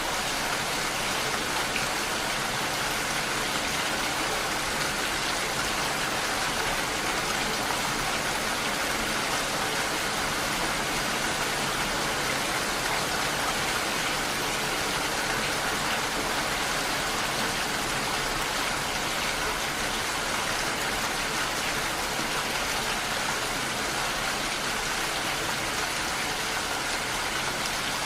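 Steady rainfall: an even, unbroken hiss of rain with no let-up or change.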